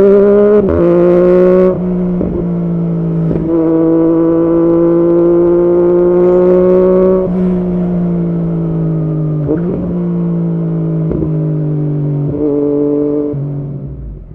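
Yamaha MT-09's three-cylinder engine through an aftermarket Arrow exhaust, running under load with its pitch climbing slowly, broken by several quick gear changes. After about seven seconds the pitch sinks slowly as it eases off, and the sound dies down near the end.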